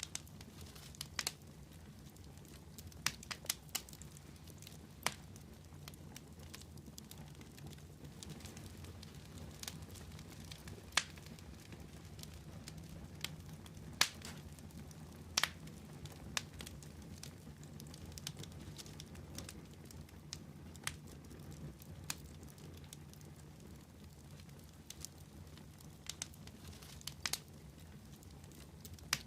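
Wood fire burning with a steady low rumble of flames and sharp, irregular crackles and pops of burning wood.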